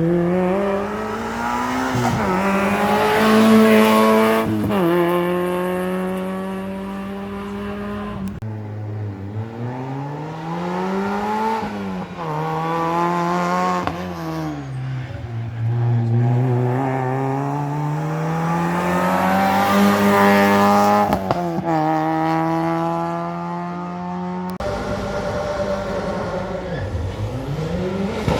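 Rally cars driven flat out on a special stage: engines revving hard, pitch climbing through each gear and falling on lifts and shifts. The sound breaks off abruptly three times as one car's run gives way to another's.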